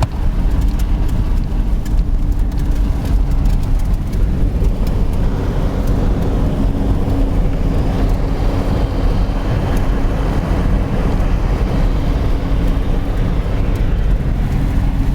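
Jeep driving on a snow- and ice-covered highway in four-wheel drive, heard from inside the cabin: a steady low rumble of engine and tyres, with a steady hum joining about four seconds in.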